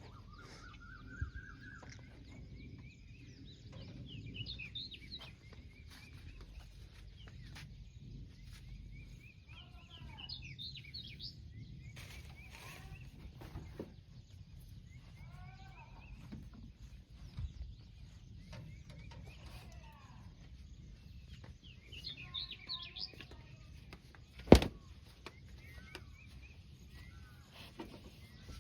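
Small birds chirping and whistling, with short calls that rise and fall in pitch, over a low steady rumble. A single sharp knock sounds late on.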